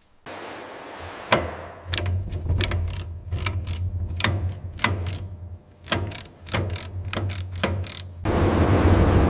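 Workshop sounds of metal parts being worked: quick, irregular clicks and knocks, like a ratchet and hand tools, over a steady low hum, with a louder rushing noise setting in near the end.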